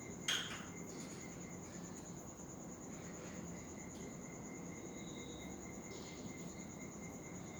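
A cricket trilling steadily, a fast, even, high-pitched pulsing that never lets up. A short, sharp, loud sound comes just after the start, and a brief high whistle about five seconds in.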